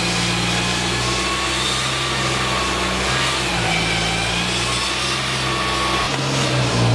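Steady engine noise: a low hum that shifts in pitch a couple of times, with a fainter whine above it.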